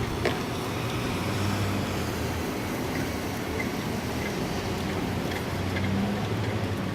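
Steady low rumble of a vehicle, with a faint hum that swells and eases, and a single sharp click shortly after the start.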